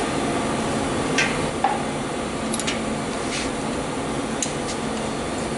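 A few scattered metallic clicks and clinks of hand tools being worked on exhaust header bolts, over steady background noise.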